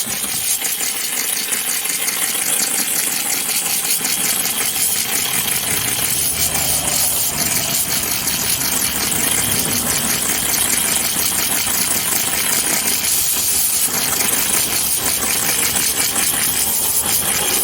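Handheld steamer spraying steam: a loud, steady hiss with a fast, even pulsing running through it, cutting off suddenly at the end.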